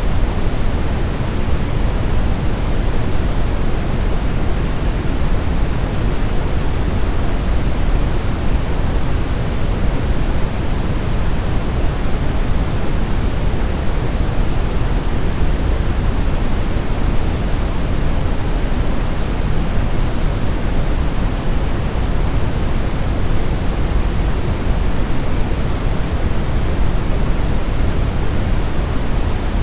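Steady brown noise: an even, unchanging rushing hiss weighted toward the low end, with no tones or events.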